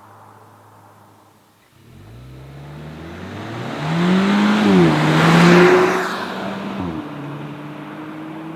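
Kia Cerato GT's 1.6-litre turbo four-cylinder accelerating hard through its dual-clutch gearbox. The engine note climbs steeply, dips briefly at quick gear changes, swells to its loudest about halfway through, then eases to a steadier, lower note.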